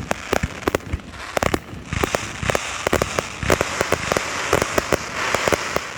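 Fireworks going off in quick succession, with many sharp bangs. From about two seconds in, a dense crackling joins the bangs.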